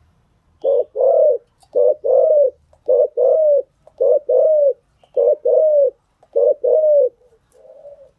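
Spotted dove cooing loudly. It gives six phrases at about one a second, each a short coo followed by a longer one that arches up and falls away. Fainter coos follow near the end.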